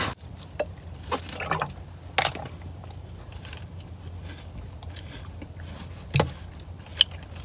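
A few soft, scattered mouth noises and small clicks over a low steady hum inside a car, as of someone quietly chewing aloe vera pulp.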